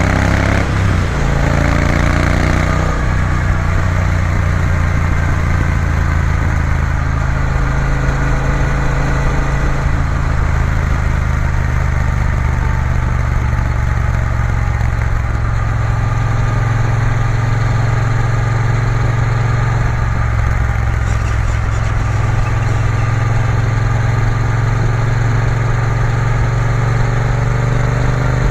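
Triumph Bonneville T120's parallel-twin engine running under way with steady wind and road noise, rising in pitch as the bike speeds up near the start and again near the end.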